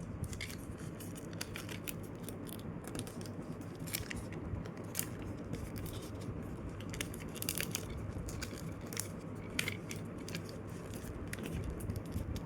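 A sheet of paper being folded and creased by hand: scattered crisp rustles, scrapes and clicks over a steady low hum.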